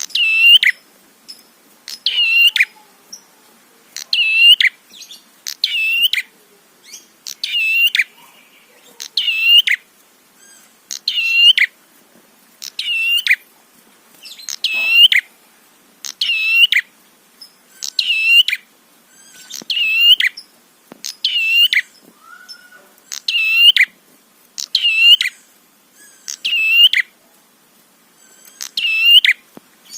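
Red-headed prenjak, a small prinia-type songbird, giving the same short, sharp chirping call over and over, about once every second and a half to two seconds. Each call is a quick downward-bending note.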